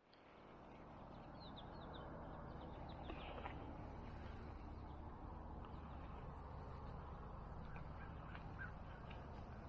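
Faint outdoor ambience with a bird giving a quick run of short, high chirps about a second and a half in, and a few more faint calls a little later.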